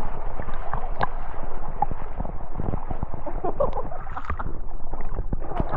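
Steady rushing, splashing water with many small knocks and taps through it.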